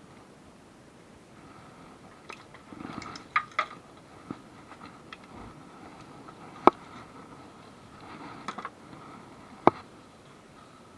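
Scattered sharp clicks and knocks of tools and metal parts being handled during engine removal on a car, with two loud single knocks about three seconds apart past the middle, over a faint steady hum.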